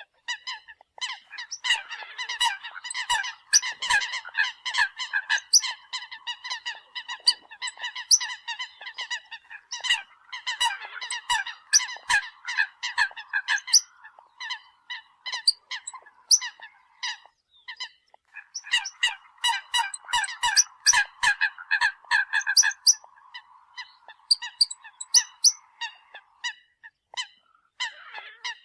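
Eurasian coot calls used as a hunting lure: rapid runs of short honking notes that come in bouts, with brief pauses between them.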